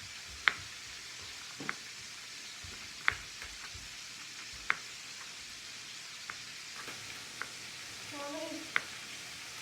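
Boneless chicken thighs searing in melted butter in a metal pan, a steady sizzle. Over it, sharp single knife taps on a cutting board every second or so as garlic cloves are sliced.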